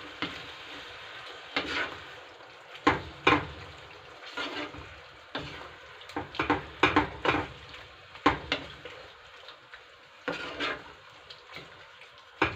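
A cooking utensil scraping and knocking against a pan at irregular moments, over a steady low hiss, as chicken in tomato paste and spices is stirred.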